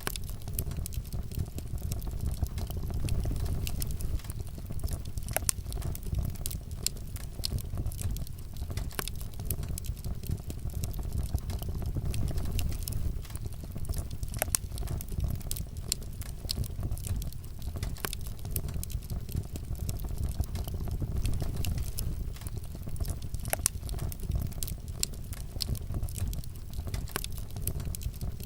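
Wood fire crackling in a fireplace: many sharp, irregular pops and snaps over a steady low rumble of burning.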